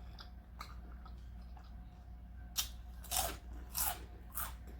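Close-miked chewing of a crunchy hard-shell taco: quiet at first, then a series of crisp crunches about half a second apart from around halfway through.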